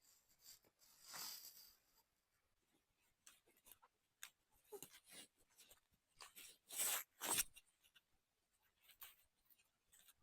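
Faint, scattered rustling and snapping of leafy plant stems as chillies are plucked by hand, with a longer swish about a second in and two louder swishes near seven seconds.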